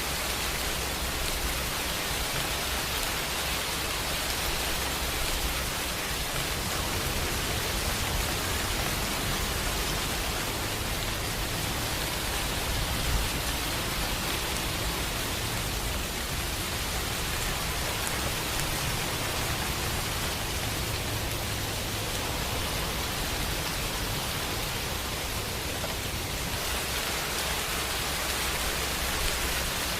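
Steady rain, a dense even hiss, with the low rumble of distant thunder swelling and fading underneath.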